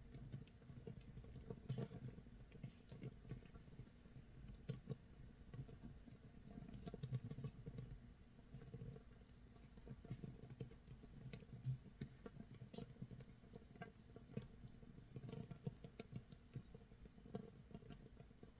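Makgeolli starter mash fermenting in a crock, 24 hours in: faint, irregular popping and crackling of bursting fermentation bubbles, sharp little clicks among softer low pops, like light rain or crackling toasted rice.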